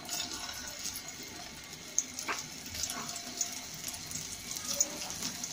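Beef kabab patties frying in hot oil in a shallow pan: a steady sizzle with scattered crackles and pops as more patties are laid into the oil, a few sharp pops about two seconds in and near the end.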